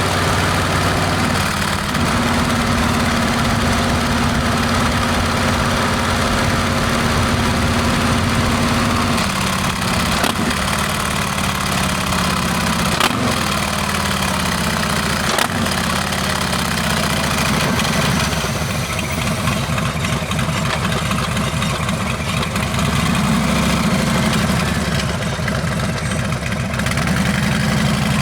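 Harley-Davidson Heritage Classic's Milwaukee-Eight V-twin running through a Rinehart exhaust while riding. It holds a steady note at first, drops in pitch as it slows a little past halfway, runs lower and quieter for a few seconds, then rises again near the end as it is opened back up.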